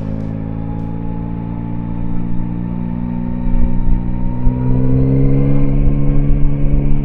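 Yamaha Tracer 9's three-cylinder engine under way, with wind rush, rising in pitch and getting louder about halfway through as the bike accelerates.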